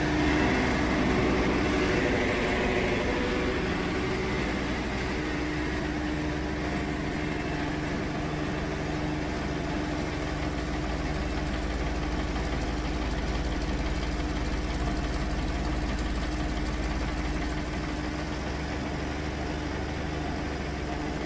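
A tractor's engine running steadily as it pulls sawdust away from under a sawmill, a little louder in the first few seconds.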